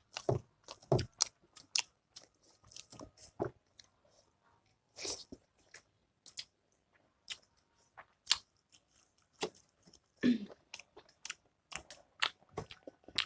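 Close-miked eating: chewing and biting a mouthful of food, with wet mouth clicks and crunches coming irregularly and a few louder crunchy bites between quieter stretches.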